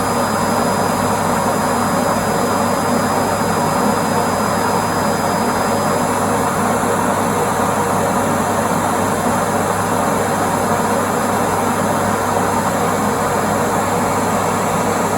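ECOVACS DEEBOT N8+ auto-empty station running, its suction motor pulling the dust out of the docked robot vacuum's bin: a loud, steady rush of air over a low hum, with a thin high whine that stops about six seconds in.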